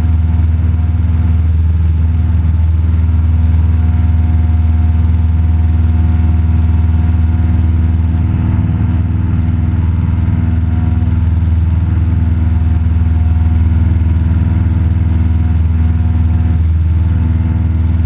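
Cessna 172 Skyhawk's piston engine and propeller running steadily at climb power just after takeoff, a loud, even drone heard from inside the cabin.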